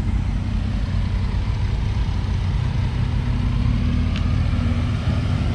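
Car engines running at low revs as cars roll slowly past, a steady low rumble.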